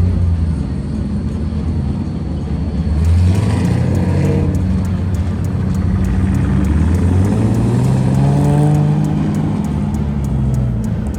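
Car engine running and revving, its pitch climbing for a couple of seconds past the middle and then holding before easing off near the end.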